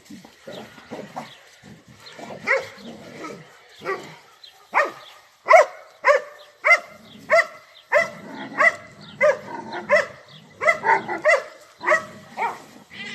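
Several dogs barking: scattered softer barks at first, then a loud, regular run of short barks about one to two a second from about five seconds in.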